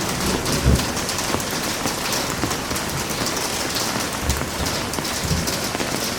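Heavy rain falling in a steady, dense hiss, with a few low thumps underneath.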